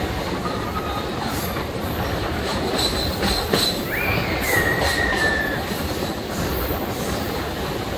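Passenger train coaches running over the rails, heard from aboard at an open doorway: a steady rumble and rattle with clicks from the track. About four seconds in, a high wheel squeal sets in, slowly sinks in pitch and fades after about a second and a half.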